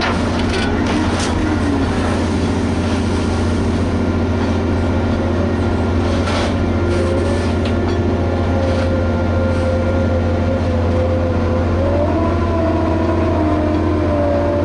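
Liebherr HS 8200 dragline excavator's engine running steadily under working load, a strong low drone with a whining tone that wavers and steps up about twelve seconds in. A few brief clanks come near the start and about six seconds in.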